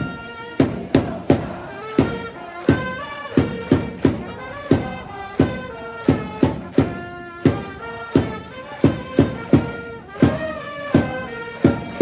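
Japanese baseball cheering-section trumpets playing a player's cheer song melody over steady bass-drum beats, about two hits a second.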